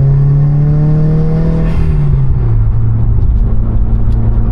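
Car engine revving, its pitch climbing gently for about two seconds, then dropping back and holding a steady lower note.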